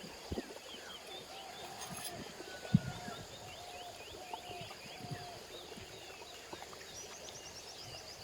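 Several birds calling and chirping, with one short call repeated about once a second and a quick high trill near the end. A low knock is heard just after the start, and a louder one about three seconds in.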